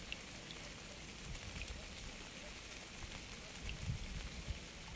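Steady rain falling, with scattered small drop ticks and a few soft low thumps near the end.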